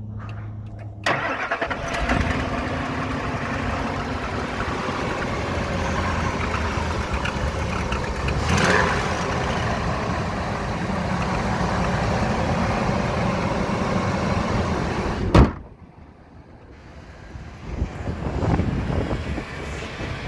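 1999 Ford truck's engine starting about a second in and then running steadily. It cuts off sharply with a loud click about fifteen seconds in, and a quieter engine sound rises again near the end.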